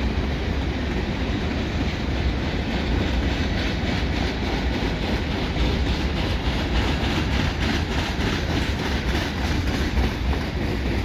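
CN mixed freight train's cars, covered hoppers among them, rolling past at steady speed: a continuous rumble with the clickety-clack of wheels over rail joints.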